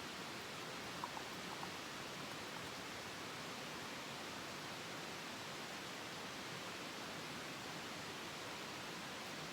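Steady rushing of a mountain stream in a gorge, an even hiss-like wash of water, with a couple of faint clicks about a second in.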